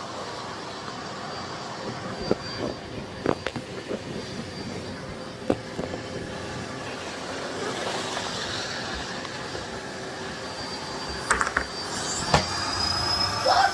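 Miele Blizzard CX1 bagless cylinder vacuum cleaner running steadily while it cleans a hard floor, with a few sharp knocks along the way.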